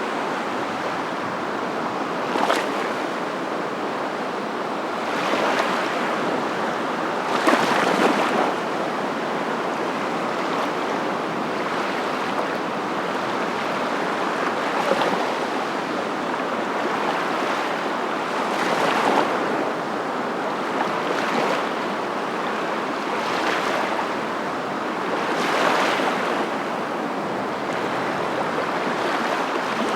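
Waves breaking: a steady rush of water that swells every few seconds, loudest about eight seconds in.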